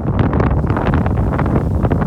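Strong wind buffeting the microphone: a constant low rumble with rapid crackling flutter.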